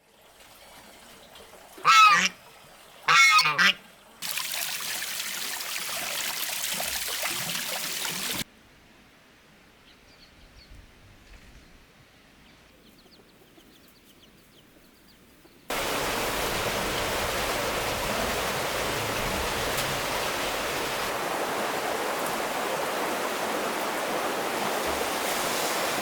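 Two loud animal calls, about a second apart, followed by steady rushing water. The water cuts off after a few seconds into a quieter stretch with faint sounds, then returns and runs on steadily.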